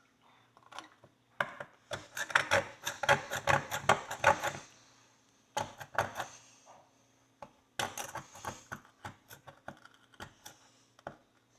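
A knife point scraping and picking wetted, caked dirt out of the crease of an old pony horseshoe, with quick scratching and clicking strokes of metal on metal. There are two flurries of strokes, with scattered ticks between them.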